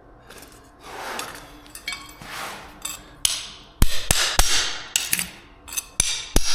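Scraping, then about half a dozen sharp hammer blows with a metallic ring, driving a scraper under carpet tack strip nailed into a concrete floor to pop it loose.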